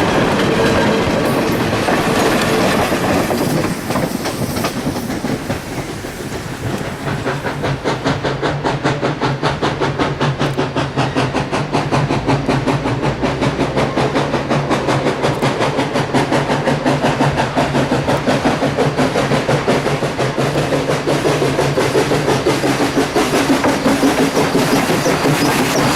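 Everett Railroad 2-6-0 steam locomotive No. 11 and its train running. About eight seconds in, a fast, even rhythmic beat sets in and carries on over a steady low hum.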